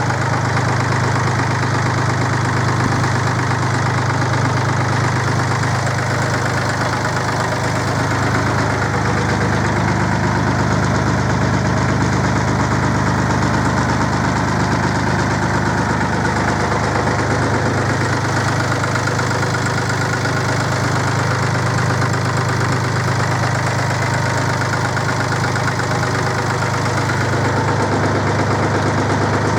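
Perkins 152 diesel engine of an Aveling Barford GRT road roller idling steadily, freshly serviced and running smoothly.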